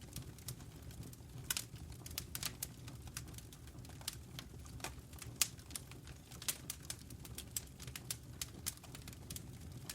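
Wood fire crackling: irregular sharp pops and snaps, several a second, over a steady low rumble of the burning logs.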